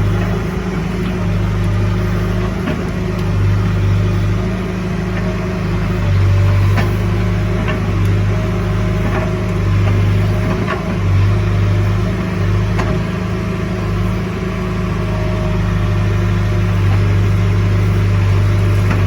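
Diesel engine of a heavy machine running steadily with small rises and falls in speed, with a few light knocks over it.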